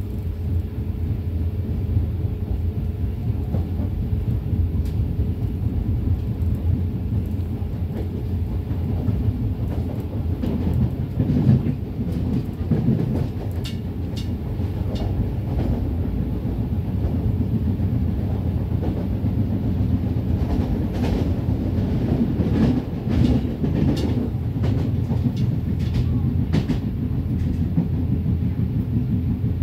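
Train running, heard from inside a passenger carriage: a steady low rumble, with wheels clacking over rail joints and points in two spells, about a third of the way in and again about two-thirds of the way in.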